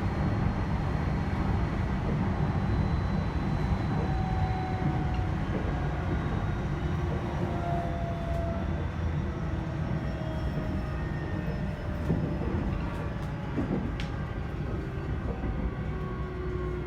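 Onboard running sound of a JR E129-series electric multiple unit, heard in motor car KuMoHa E128-9: a steady rumble of wheels on rail under traction-motor and inverter tones that fall slowly in pitch. A sharp click comes about fourteen seconds in.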